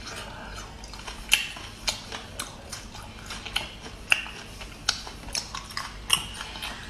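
Close mouth sounds of chewing abalone and cat's eye snail meat: irregular wet clicks and smacks, about one or two a second.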